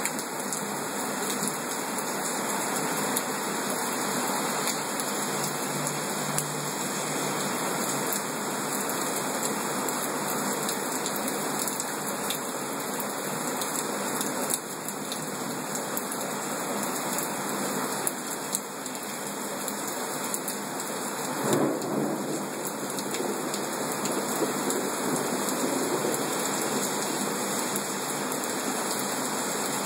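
Heavy rain pouring steadily onto surfaces in a thunderstorm, with a short louder rumble of thunder about two-thirds of the way through.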